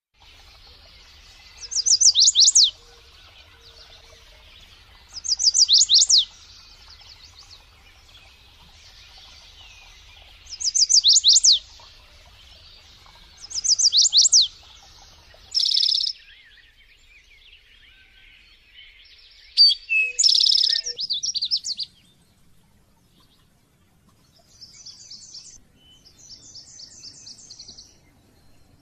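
A songbird singing in loud, roughly one-second phrases of rapid high notes that fall in pitch, repeated every few seconds. Around the middle comes a harsher buzzy note and a busier phrase, and near the end softer, quicker trills.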